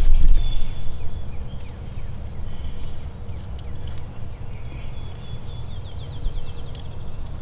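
Small songbirds singing: thin high whistled notes, with a quick trill of falling notes near the end, over a low wind rumble on the microphone.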